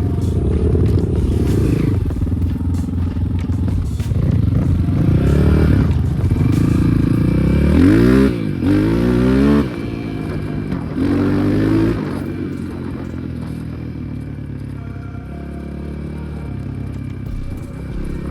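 Air-cooled 300 cc enduro motorcycle engine under way, revving up and dropping back several times between about five and twelve seconds in, then running more steadily at lower revs.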